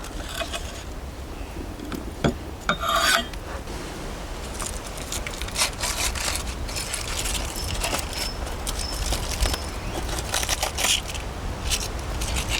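Aluminium foil packet being handled and unwrapped: irregular crinkling and rustling of the foil, with a few sharper crackles.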